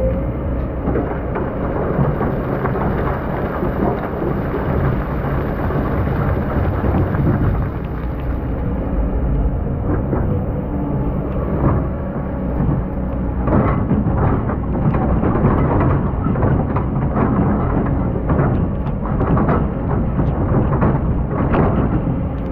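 Excavator's diesel engine running steadily under a dense rushing noise of sand being dug and dumped. Frequent knocks and clatters come in the second half.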